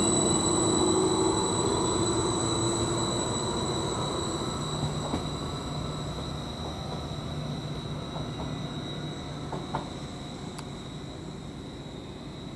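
Greater Anglia Class 755 bi-mode multiple unit pulling away under diesel power. Its engine note rises for the first few seconds, then the sound fades steadily as the train leaves, with a few faint clicks from the wheels near the end.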